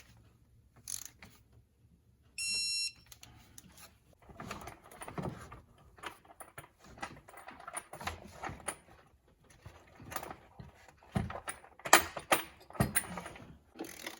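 Hand tools and metal parts clinking and knocking, irregularly, during engine reassembly work. There is a single short electronic beep about two and a half seconds in.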